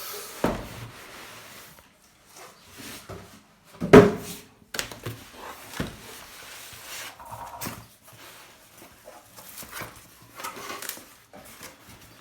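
Unboxing noises: packaging being handled, with rustling and scraping and a few knocks, the loudest about four seconds in.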